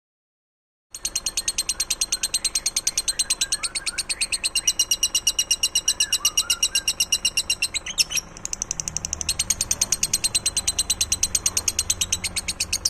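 A songbird's rapid high trill: sharp, even notes repeated about ten times a second, starting about a second in, with a brief break about eight seconds in, and fainter lower chirps beneath.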